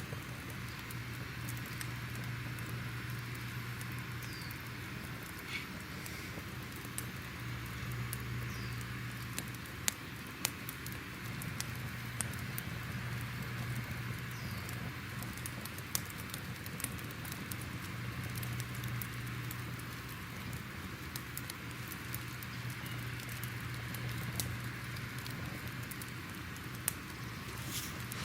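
Crackling fire ambience: a steady low rumble and hiss with irregular sharp pops and crackles.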